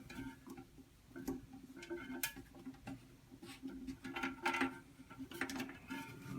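Scattered light clicks and taps of plastic toilet parts being handled and worked loose, over a faint steady hum.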